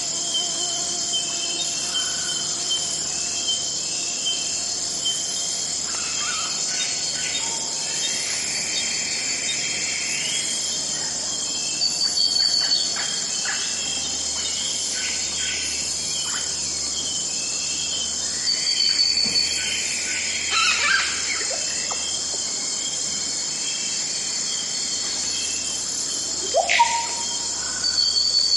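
Forest ambience: a steady, high-pitched chorus of insects such as crickets, with assorted bird calls and chirps breaking in now and then, including a run of calls about two-thirds through and a rising whistle near the end.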